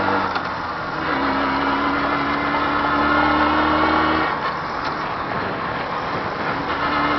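Jawa 638 motorcycle's two-stroke twin engine running under way. Its note climbs slowly from about a second in, drops off abruptly about four seconds in, and starts climbing again near the end.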